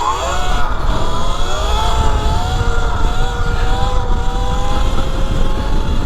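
E Ride Pro SS 3.0 electric dirt bike's motor and drivetrain whining, rising sharply in pitch as it accelerates away, then climbing slowly and holding at speed. Wind buffets the microphone underneath with a low rumble.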